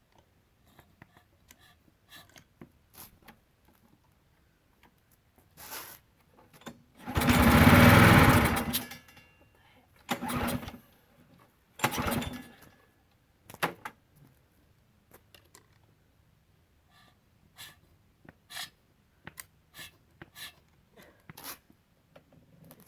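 Briggs & Stratton Quantum small engine being cranked by hand through its recoil starter, with a loud burst lasting over a second about seven seconds in and two shorter bursts around ten and twelve seconds, amid light clicks and knocks. The engine has a newly fitted carburetor and is being started on choke with no gas put in it, running only on fumes.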